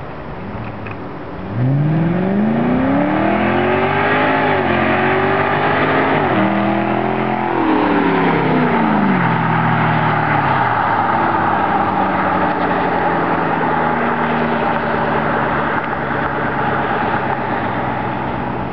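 Ford Mustang GT's 4.6-litre three-valve V8, running through muffler-delete pipes with no mufflers, accelerating hard. About a second and a half in the exhaust note jumps in loudness and climbs in pitch, with two brief drops where it shifts gear. It then falls away and settles into a steady cruise.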